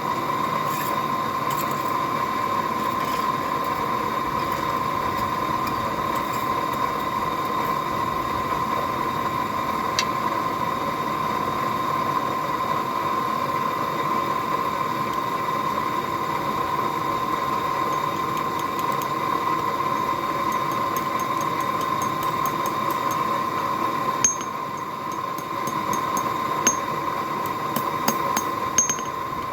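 A forge running steadily: a constant rushing noise with a steady whine through it. Near the end the noise eases slightly and a few light metallic taps sound.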